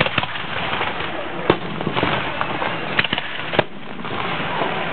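Aerial fireworks bursting: a run of about six sharp bangs and pops, irregularly spaced roughly half a second to a second apart, over steady background noise.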